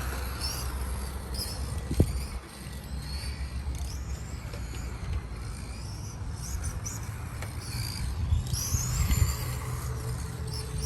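3Racing Sakura XI Sport NU 1/10 electric RC touring car driving laps: its motor whine rises and falls as it speeds up and slows, over a steady low rumble, with a sharp knock about two seconds in.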